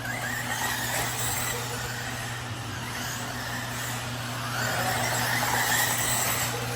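Several Losi 22S electric RC sprint cars racing on a clay oval, their motors whining and the pitch rising and falling as they go through the turns, over a steady hiss and a low hum.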